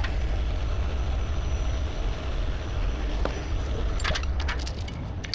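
Heavy tow truck's engine idling with a steady low rumble, with a few light clicks about three to four seconds in.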